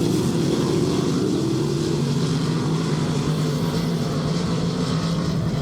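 Dirt-track race car engines running at speed around the oval, a steady, loud engine sound with little change in pitch.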